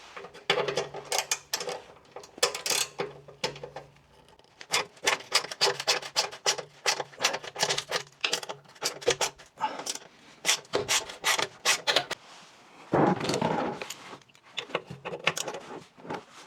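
Ratchet wrench with a T50 Torx socket clicking in rapid runs while skid plate bolts are backed out, with a denser scraping stretch about thirteen seconds in.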